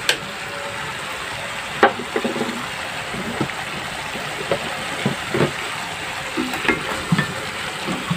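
Squid sizzling steadily in soy sauce and its own released juices in a stainless steel pot, with scattered light knocks and clinks of a spatula against the pot as it is stirred, more of them in the second half.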